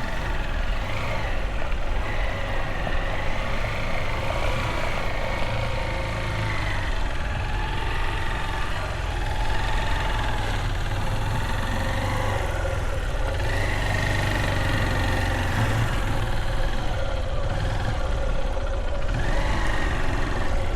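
Motorbike engine running steadily while riding, its pitch slowly rising and falling as the revs change.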